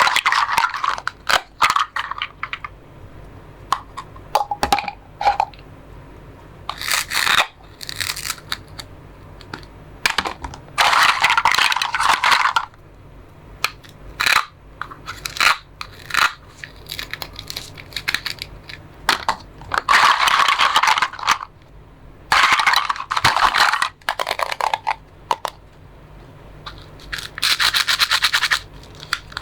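Plastic toy fruits and vegetables being cut apart with a toy knife: repeated rasping, tearing bursts a second or two long, with sharp plastic clicks and taps between them.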